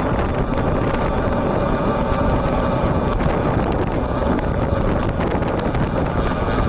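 Wind buffeting an action camera's built-in microphone on a moving road bike in the rain, a steady low rumble of wind and road noise. A faint steady hum runs underneath.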